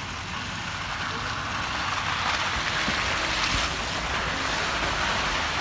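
A vehicle passing on a snowy, wet road: tyre hiss through slush swells to a peak about two to three seconds in and then eases, over a low engine rumble.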